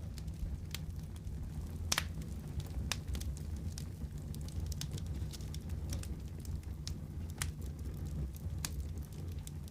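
Wood fire crackling in a fireplace: a steady low rumble of the flames with irregular sharp pops and snaps, the sharpest about two seconds in.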